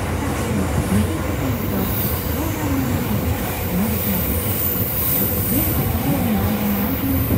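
Train running noise heard inside a moving passenger car: a steady low rumble of wheels on rail with a low whine that wavers up and down in pitch, while another electric train runs close alongside on the adjacent track.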